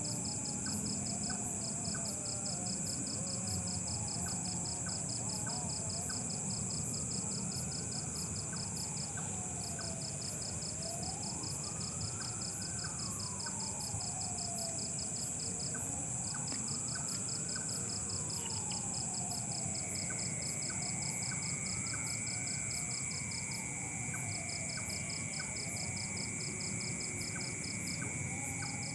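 Night insects, crickets among them, chirping continuously: a steady high buzz with rapid trills in bouts of several seconds. Behind them a slow wailing tone rises and falls again and again, each swell lasting a few seconds.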